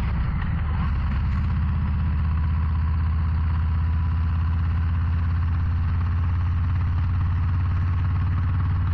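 Harley-Davidson Low Rider ST's Milwaukee-Eight 117 V-twin running at a steady cruising speed, its low engine note even throughout, over a steady rush of road noise.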